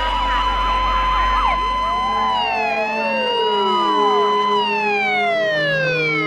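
Police car sirens sounding, one steady tone with wavering wails over it early on. Their pitch dips about two seconds in, then from about four and a half seconds slides steadily down.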